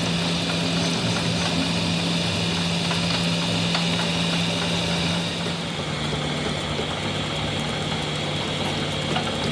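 A machine running steadily with a constant hum, its pitch dropping slightly a little past halfway.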